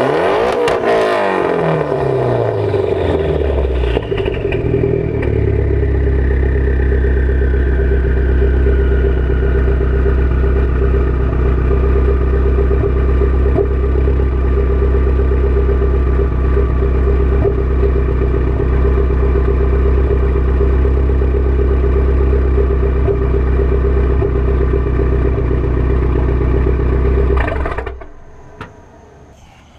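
Mitsubishi Lancer Evolution X turbocharged 2.0-litre four-cylinder, breathing through a straight-piped, muffler-less exhaust. It drops back from a rev and then idles with a loud, steady, deep drone, while a high whine falls slowly in pitch. Near the end the engine is shut off and the sound cuts out.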